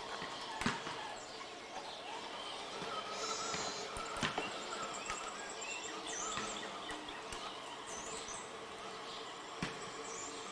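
Outdoor background noise with a few short, high bird chirps and some faint clicks.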